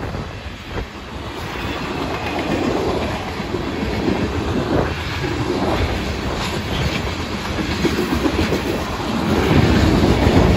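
Union Pacific freight train's covered hoppers and tank cars rolling by, wheels clattering over the rail joints, getting louder about nine seconds in.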